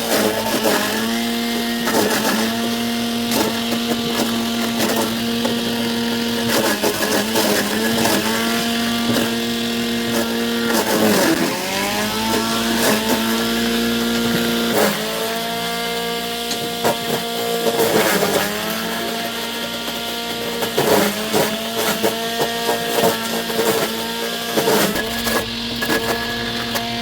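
A small high-speed motor running steadily with a hum, its pitch sagging and recovering several times as if briefly loaded.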